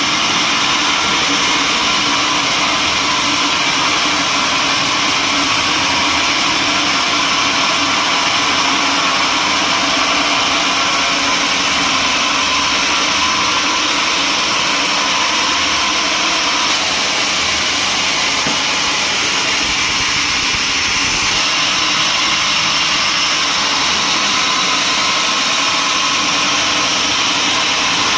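Sawmill machinery running, a loud, steady, even noise that does not change.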